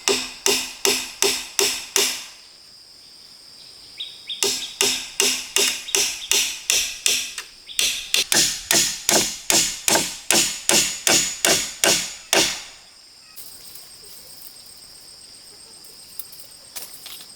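Hammer blows in three quick runs of about three to four strikes a second, each run stopping abruptly. A steady high buzz of insects fills the pauses.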